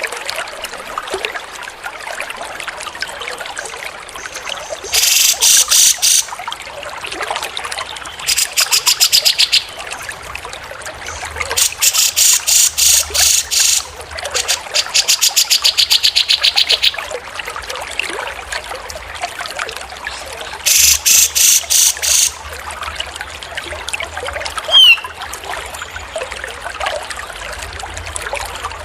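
Water trickling steadily, broken by five loud bursts of small songbird trills, each a rapid run of repeated high notes lasting one to two and a half seconds. A single short falling whistle comes near the end.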